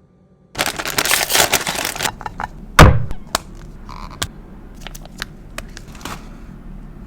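Crinkling and rustling for about a second and a half, a loud thud about three seconds in, then scattered light clicks and taps: food and its container being handled just before eating.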